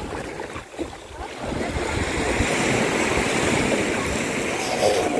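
Ocean surf washing onto a sandy beach, a wave swelling in about a second and a half in and rushing on steadily.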